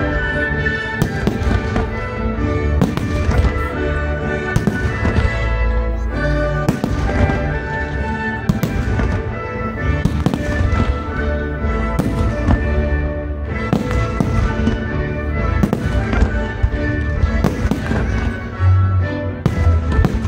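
Aerial fireworks going off in a steady string of sharp bangs, about one every second, over continuous music set to the show.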